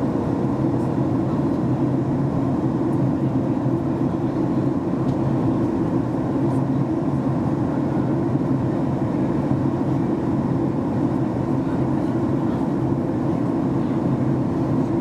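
Steady cabin noise inside a Boeing 737 MAX 8-200 in flight: a low, even drone of airflow and the CFM LEAP-1B engines.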